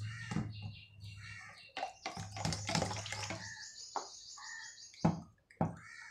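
Small birds chirping, with a fast high-pitched trill in the middle, over a low hum that stops about three and a half seconds in; a few sharp clicks are heard too.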